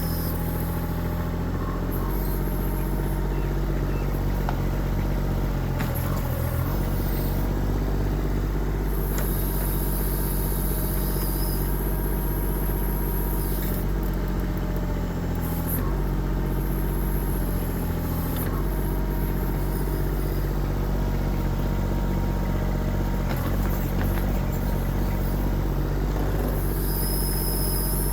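Kubota diesel engine of a 1.6-ton mini excavator running steadily, its note shifting a few times, with a high hiss that comes and goes.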